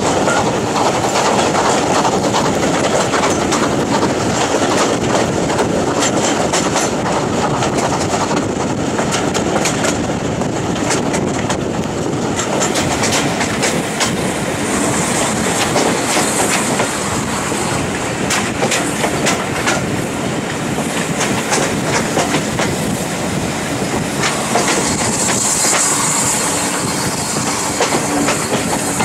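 A passenger train running along the line, its carriage wheels clicking steadily over the rail joints amid continuous rumble and rattle.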